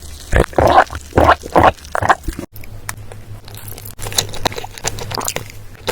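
Close-miked eating: a run of loud, crunchy bites in the first two seconds, then after a short break quieter crackling chewing.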